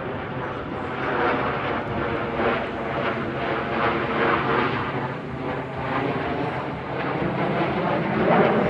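Blue Angels F/A-18 Hornet jets flying past with a steady jet-engine rush that swells to its loudest near the end.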